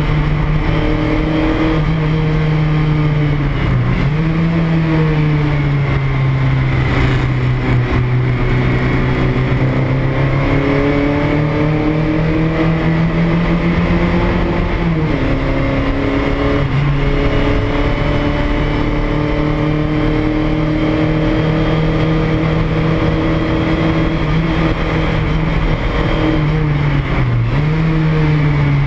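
Porsche 924 race car's four-cylinder engine under racing load, heard from inside the cabin. Its note climbs and falls through the lap, dropping in pitch sharply three times: a few seconds in, about halfway, and near the end.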